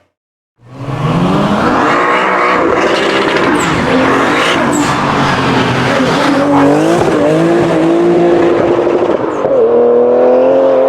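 A tuned BMW M car's engine revving hard under full acceleration, starting abruptly about half a second in, its pitch climbing, dropping and climbing again with the throttle and gear changes, with tyre squeal from spinning rear wheels.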